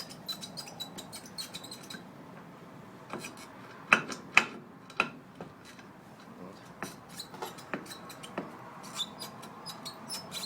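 A worn universal-joint cross from a VAZ-2107 driveshaft squeaking and clicking as it is worked by hand, with a few sharper metal knocks about four to five seconds in. Its needle rollers are rusted and broken inside.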